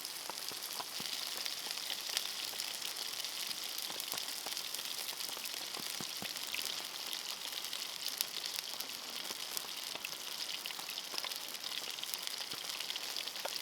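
Meat frying in a pan: a steady sizzling hiss with many small crackles and spits.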